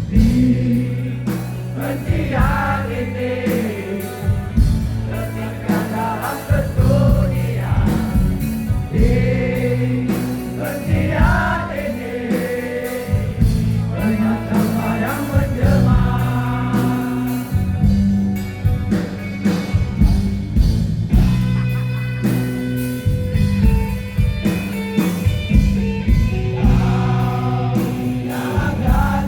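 Live rock band playing, with a sung vocal line over electric bass and drums.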